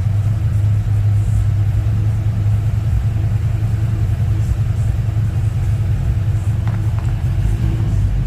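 A car's engine running steadily through its rewelded exhaust: a steady, deep rumble that holds even throughout.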